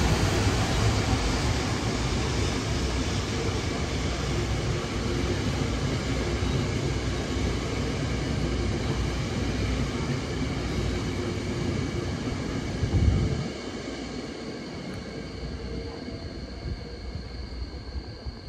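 Red Tokyo Metro Marunouchi Line 2000 series cars rolling past, towed without their own power: a steady rumble of steel wheels on the rails. About 13 seconds in, the noise swells briefly and then drops off sharply as the last car goes by, and it fades as the train moves away.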